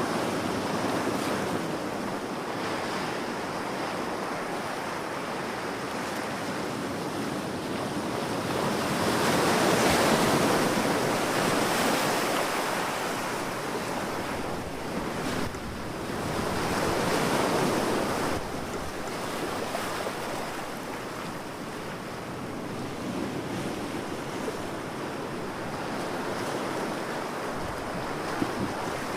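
Ocean waves breaking and washing on a beach, a steady surf with two larger waves swelling and breaking about ten and seventeen seconds in.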